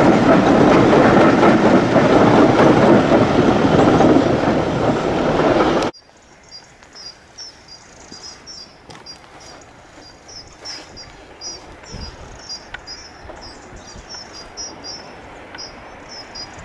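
Passenger coaches of a passing train rolling by close at hand, wheels running loud and steady on the rails, cut off abruptly about six seconds in. After that, a much quieter outdoor background with a small bird chirping again and again.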